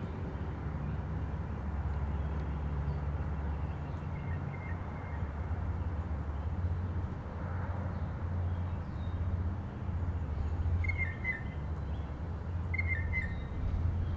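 A bird chirps briefly twice near the end, over a steady low background rumble.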